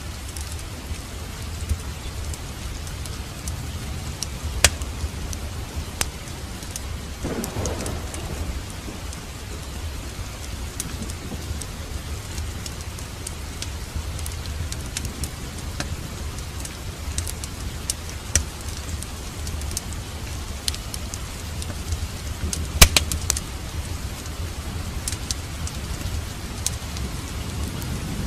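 Steady rain hiss mixed with a crackling wood fire in a fireplace: scattered sharp pops and snaps of burning wood, the strongest about three quarters of the way through, over a constant low rumble.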